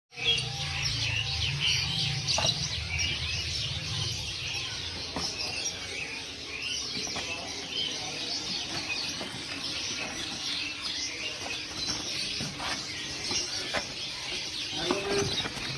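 Many caged songbirds chirping and twittering at once in a dense, overlapping chorus, with scattered sharp clicks. A low hum sits under the birds for the first few seconds.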